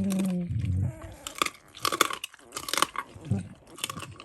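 A Dalmatian chewing duck necks, the bones crunching in a run of sharp bites about every half second. A short pitched sound comes right at the start.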